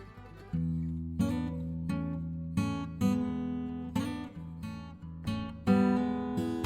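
Background music: acoustic guitar strumming chords, each chord struck sharply and ringing.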